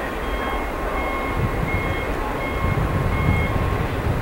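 Double-stack intermodal freight train rolling past at a distance: a steady rumble of the well cars on the rails. Through it a high electronic beep repeats about once every three-quarters of a second.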